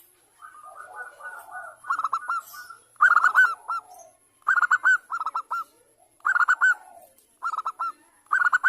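Female zebra dove (perkutut) calling: repeated bursts of three to five quick, arched cooing notes, starting softly and then coming about once a second.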